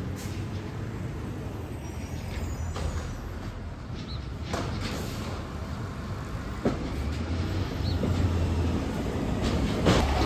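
Garbage truck engine running with a low steady drone that grows louder about two-thirds of the way in, with a few sharp knocks, the loudest near the end.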